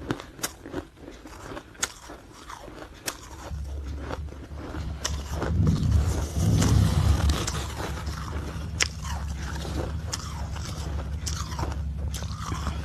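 Ice being bitten and chewed close to the microphone: a string of sharp, irregular cracks and crunches. A low steady hum runs underneath from a few seconds in.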